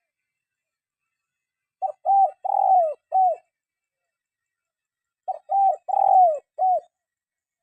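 Spotted dove cooing: two identical phrases about three and a half seconds apart, each of four coos, the third the longest and falling in pitch at its end.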